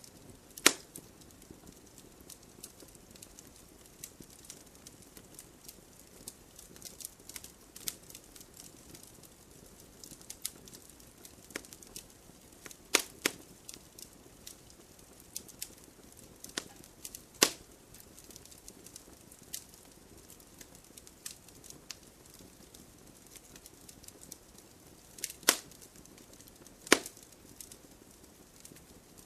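Wood campfire crackling: a steady scatter of small snaps over a faint hiss, broken by a handful of loud, sharp pops spread through it.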